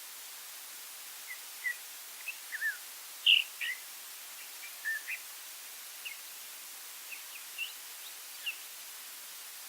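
A songbird calling in a loose string of short chirps and quick whistled notes, the loudest about three seconds in, over a steady background hiss.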